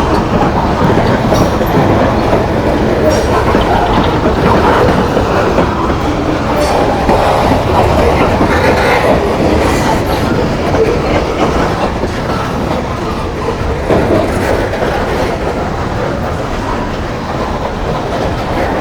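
A long freight train's cars rolling past close by, with steady, loud wheel and rail noise and wheels clacking over the rail joints.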